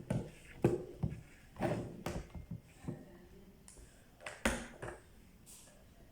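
Irregular clicks and knocks of plastic and metal from a clothes iron being handled and worked on during a repair. The loudest knock comes about four and a half seconds in.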